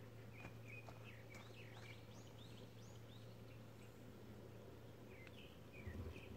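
Faint birdsong: small birds chirping in short, quick sweeping notes, over a steady low hum. A few soft low thumps come near the end.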